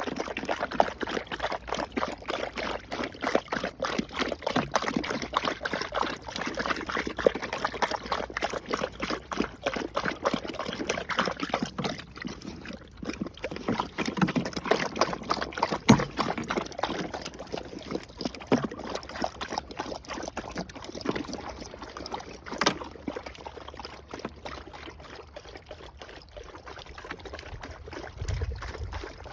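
Akbash dogs lapping water with fast, repeated splashing laps of their tongues, thinning out and getting softer after a short pause partway through.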